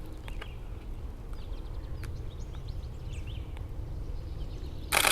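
Short, high bird peeps and chirps scattered throughout, over a low steady rumble, with a brief loud burst of noise at the very end.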